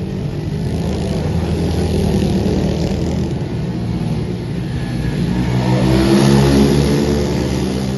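Pit bike engine running hard, its note climbing and getting louder from about five seconds in.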